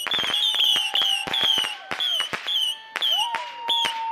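Fireworks going off: rapid sharp crackling bangs mixed with repeated short high whistles that fall in pitch, and a longer held whistle that slides down near the end.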